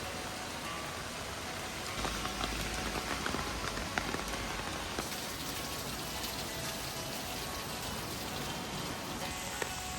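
Heavy typhoon rain falling steadily, with scattered sharp drip and tap sounds from close drops, thickest two to four seconds in.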